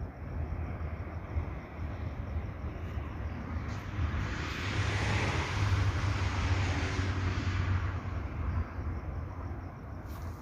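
A vehicle passing by: tyre and engine noise swells and fades over about four seconds in the middle, over a steady low rumble.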